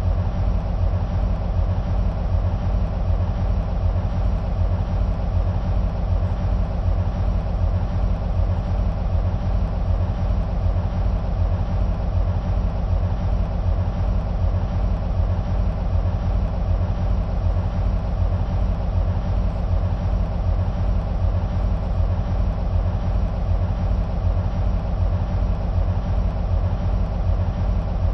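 EMD SW1500 switcher locomotives' 12-cylinder two-stroke diesel engines idling with a steady, deep low throb that does not change.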